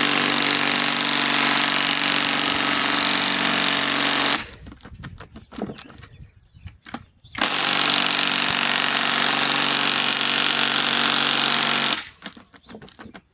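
Bauer cordless compact impact wrench hammering a lag screw in, in two long steady runs of about four to five seconds each, with a pause of small knocks and rattles between them.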